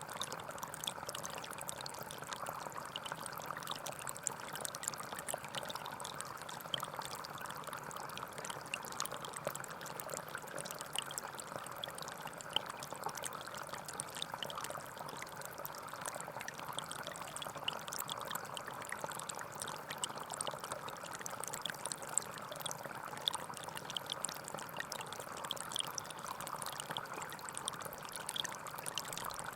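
Gentle forest stream flowing steadily, water babbling over stones with many small splashes and drips.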